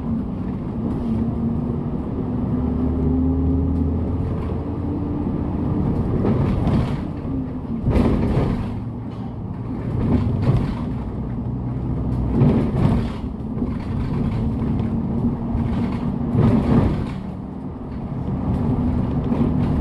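Hyundai Green City bus's G240 CNG engine pulling the bus up through its gears, the engine note rising and dropping as the gears change, with several short louder surges.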